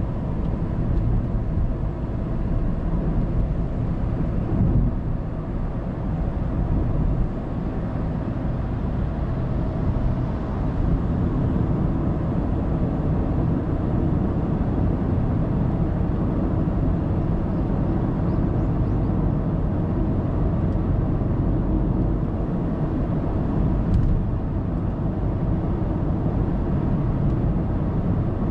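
Steady road noise of a car cruising on an expressway: tyre and engine rumble heard inside the cabin through a dashcam microphone.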